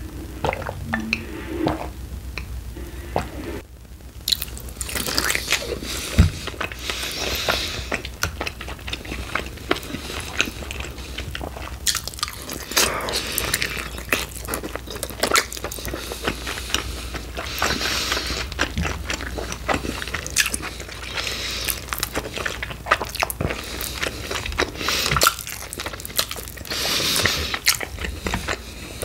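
Close-miked biting and chewing of sauced chicken wings: many short crunches and mouth clicks coming in bursts a second or so apart, with a brief lull about four seconds in.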